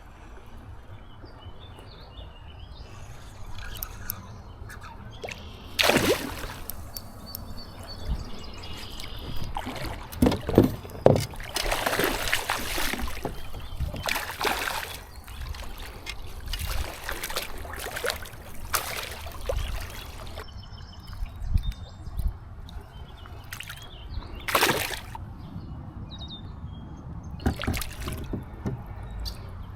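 Water splashing and sloshing around a kayak in irregular bursts, several of them loud.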